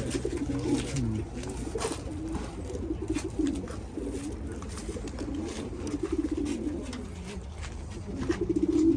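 A crowd of racing pigeons in transport crates cooing continuously, many overlapping calls, with scattered clicks and taps from the birds moving in the crates; the cooing swells louder near the end.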